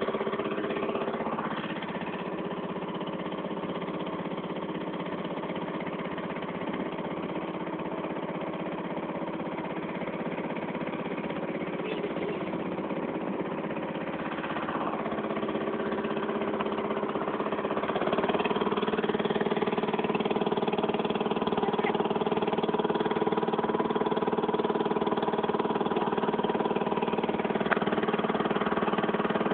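Boat engine running steadily; it gets louder a little past the halfway point, with a slight shift in pitch.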